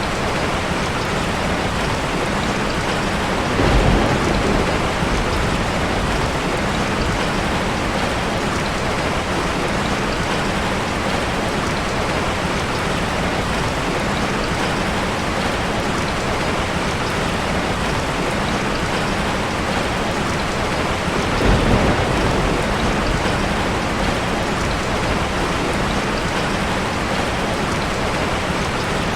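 Steady heavy rain falling, a dense continuous patter. Two short, louder low rumbles rise out of it, about 4 seconds in and again about 22 seconds in.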